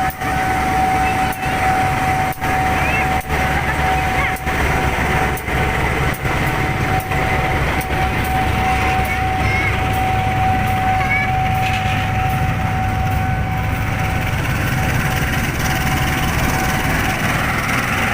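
Long freight train rolling through the station: a steady, loud low rumble with a single continuous whine over it.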